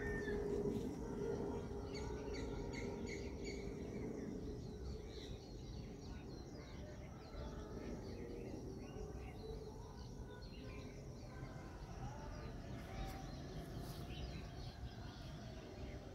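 Small birds chirping on and off over a steady low background rumble.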